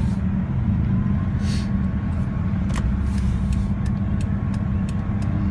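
Car engine running with a steady low rumble, with a few faint ticks and brief hisses over it.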